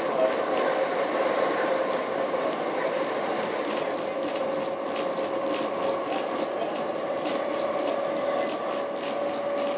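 Heritage narrow-gauge train running, heard from inside the carriage: a steady rumble of wheels on rail with a steady whine, and a run of sharp clicks from the wheels over the rail joints that comes thicker from about four seconds in.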